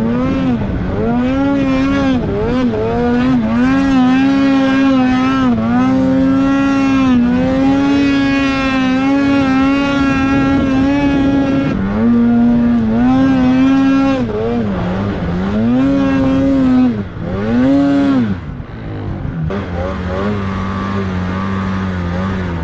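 Snowmobile engine under riding throttle, its pitch rising and falling again and again as the throttle is worked. Near the end it settles to a lower, steadier note.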